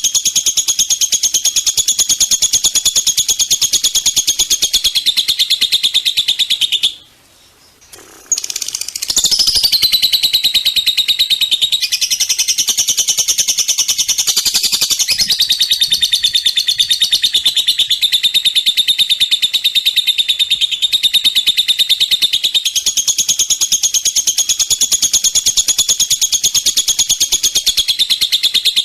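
Small songbird singing a fast, unbroken, high-pitched trill: recorded masteran song for training caged birds. It breaks off about seven seconds in, then resumes with swooping notes before settling back into the rapid trill.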